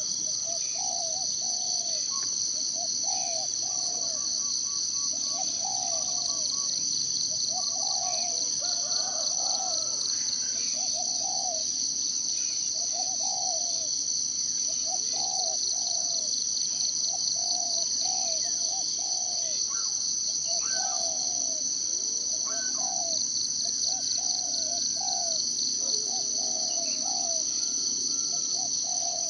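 A steady, high-pitched insect chorus with a fast pulse, the loudest thing throughout, over forest birds: a bird repeating short low calls about once a second, with a few faint higher chirps.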